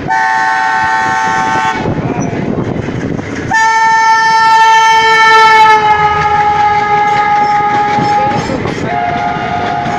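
Train horn sounding three times: a short blast, then a long one of about five seconds that sags slightly in pitch partway through, then another starting near the end. Under it runs the rumble of the train on the rails.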